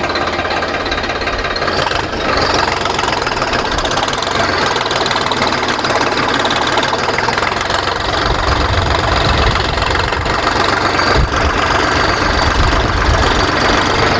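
The Kirloskar diesel engine of a VST Shakti 9054 DI tractor running steadily while the tractor is driven through a turn, with a deeper rumble in the second half.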